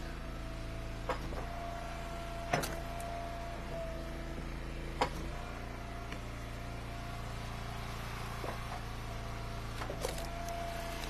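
Eastonmade wood splitter running steadily, its motor hum joined by a whine that comes and goes. Sharp knocks about one, two and a half, five and ten seconds in, as split firewood hits the pile.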